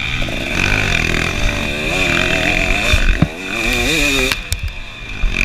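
KTM 300 two-stroke dirt bike engine revving hard, its pitch rising and falling several times as the rider works the throttle.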